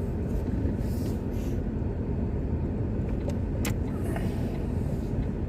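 Steady low rumble of a car, heard from inside the cabin, with a couple of faint clicks a little past halfway.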